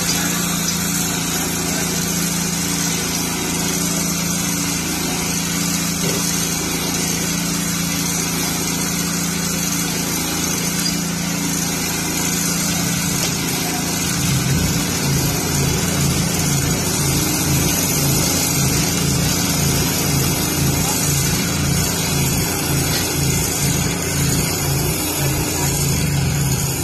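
Small engine running steadily. About halfway through its note changes to a rapid, even pulsing.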